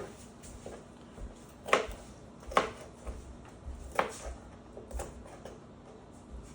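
Santoku kitchen knife chopping a red bell pepper into chunks on a cutting board: four or five sharp knocks of the blade against the board, roughly one a second.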